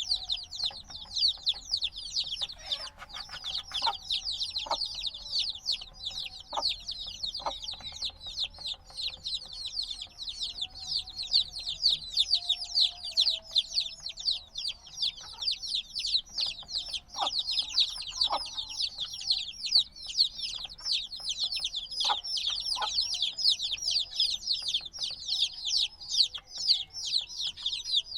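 A brood of days-old chicks peeping nonstop: many overlapping high chirps, each one falling quickly in pitch.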